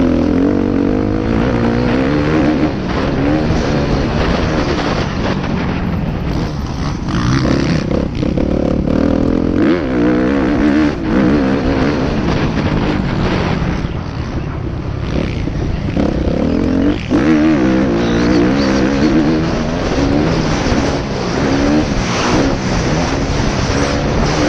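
Motocross motorcycle engine running hard, its pitch rising and falling over and over as the throttle opens and closes around the track.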